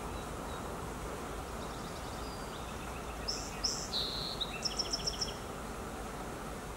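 A bird calling: a few short high chirps from about two seconds in, then a quick run of about six notes, over a steady low background noise.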